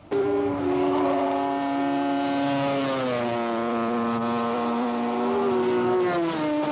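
Racing motorcycle engines running hard, starting abruptly. The engine note holds steady, then drops a step in pitch about three seconds in and again near the end.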